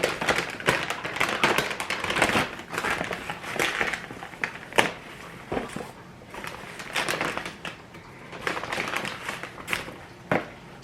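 Takeout food packaging being handled and unpacked: a bag and wrappers rustling and crinkling in irregular bursts, with sharp crackles and clicks.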